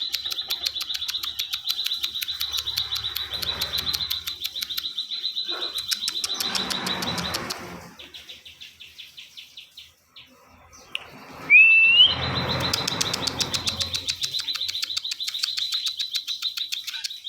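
A ciwah songbird singing continuously in a fast, even run of repeated high chirping notes. It breaks off about halfway through, gives a short rising whistle and a loud burst, then goes straight back into the same rapid chirping.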